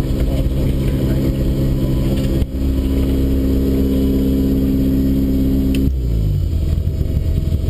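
Mitsubishi Lancer Evolution VII rally car's turbocharged four-cylinder engine running at steady revs, with a brief break about two and a half seconds in, then held at a higher, steadier pitch. About six seconds in the revs fall away as the car slows.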